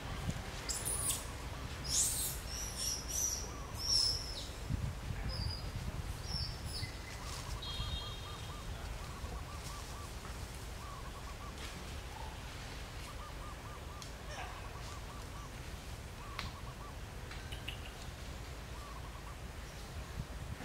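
Birds chirping: a cluster of sharp, high chirps in the first few seconds, then strings of short, quieter calls through the middle, over a steady low background rumble.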